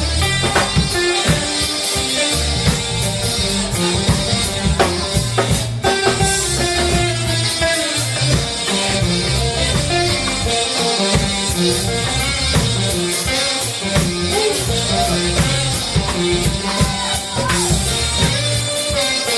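Live reggae band playing a passage without sung lyrics: drum kit, a steady low bass line and guitar.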